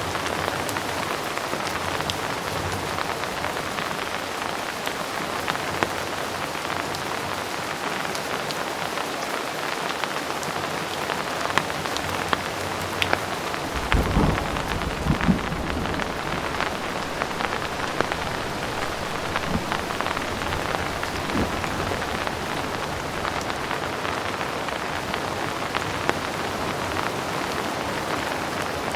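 Heavy rain falling steadily, a dense hiss with scattered drop ticks. About halfway through, a low rumble of thunder swells and then fades over several seconds.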